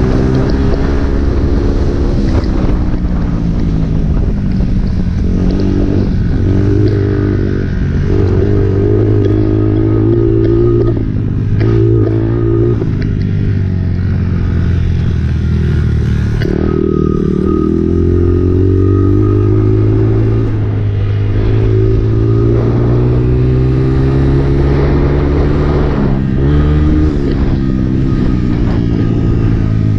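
Honda CRF four-stroke dirt bike engine ridden hard around a motocross track, its pitch climbing and falling again and again as the rider opens and closes the throttle through the gears. Brief throttle chops or shifts come about a dozen seconds in, again a few seconds later, and near the end.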